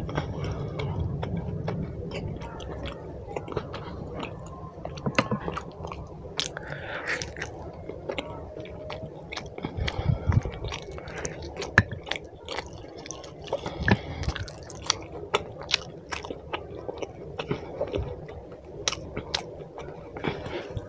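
Close-up wet chewing of chicken curry and roti, with frequent short sharp mouth clicks and smacks.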